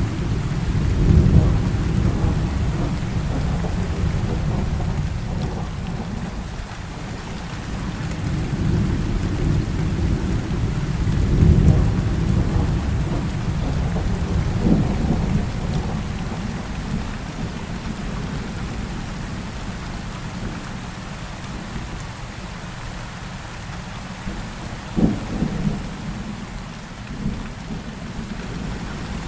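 Heavy rain falling steadily through a thunderstorm, with thunder rolling in deep swells. A sharper thunderclap comes about halfway through and another near the end.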